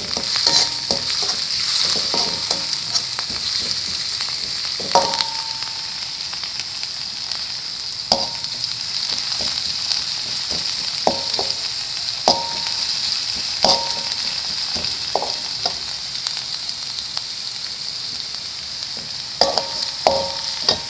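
Shallots and spring onions sizzling steadily as they are stir-fried in hot oil, with a metal spatula knocking against the pan about a dozen times, each knock ringing briefly.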